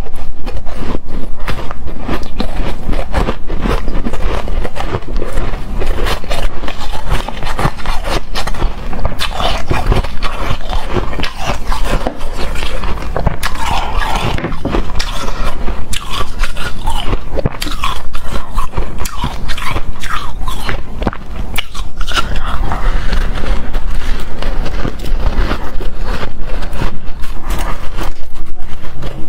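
Close-miked biting and chewing of hard, frosty shaved ice: dense, continuous crunching with no pauses.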